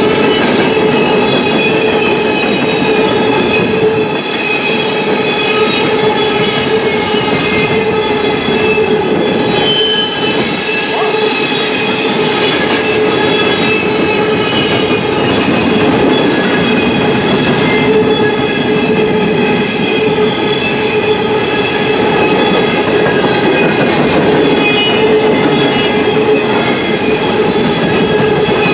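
Loaded CSX coal train's hopper cars rolling past, steel wheels clattering over the rails with a steady squeal from the wheels.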